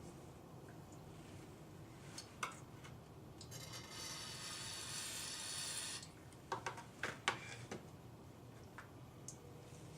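An aerosol spray can hissing for about two and a half seconds, typical of penetrating lubricant sprayed onto a stuck, rusted distributor shaft, followed by a few sharp clicks and knocks of metal parts being handled.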